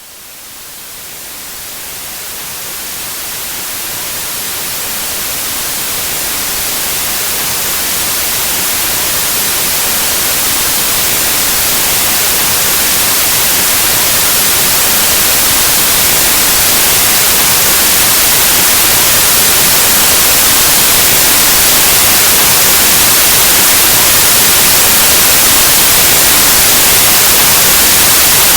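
Steady white noise, a full-spectrum static hiss, fading in gradually over the first fifteen seconds or so and then holding loud and even.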